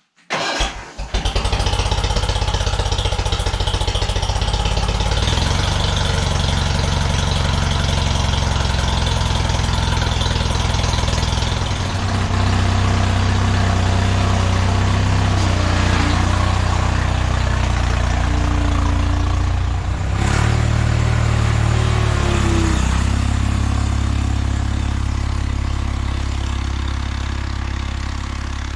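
1979 Bolens HT-23 garden tractor's 58 cu in Kohler K582 opposed-twin (boxer) engine starting: it catches about half a second in and then runs steadily, its speed shifting around twelve and twenty seconds in.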